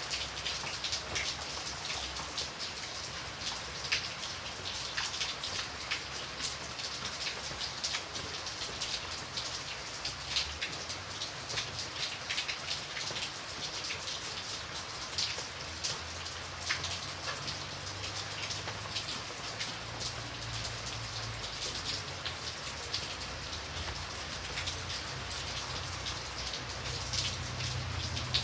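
Steady rain falling, with many individual drops clicking close by on a hard surface over the even hiss, and a soft low rumble that comes and goes underneath.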